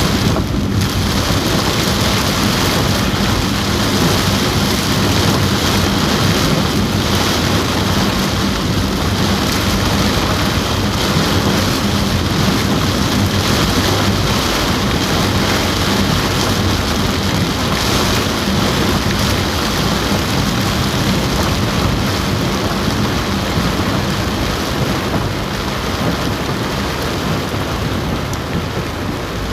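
Heavy rain falling on a car roof, heard from inside the car as a steady, dense hiss with a faint low hum underneath, easing slightly near the end.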